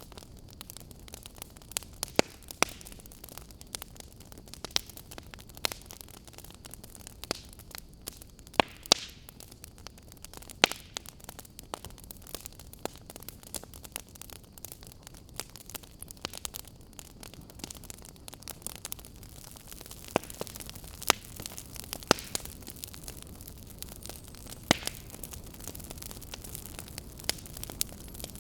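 Fire in a fireplace crackling, with irregular sharp pops, several a second, some much louder, over a steady low hiss.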